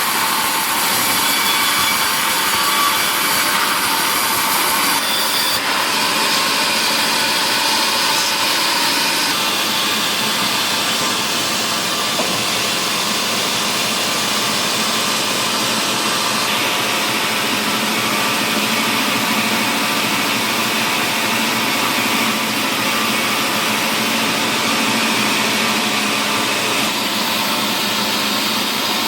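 Sawmill machinery running steadily, a power saw cutting mahogany timber, its tone shifting slightly a few times as the cut goes on.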